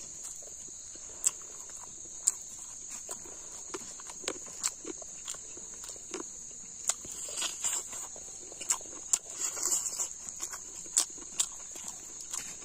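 Chewing and lip-smacking while eating rice by hand, in sharp irregular clicks, over a steady high-pitched drone of insects.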